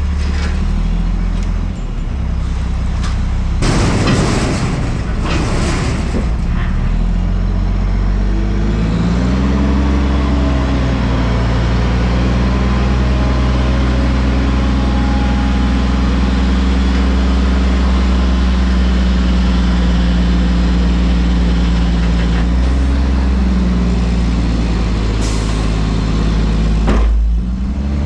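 Diesel engine of a front loader garbage truck, revving up about nine seconds in and held at raised speed for over ten seconds, then dropping back and rising again near the end, as the engine is sped up to drive the hydraulics. Two loud hissing, clattering bursts come about four and five and a half seconds in.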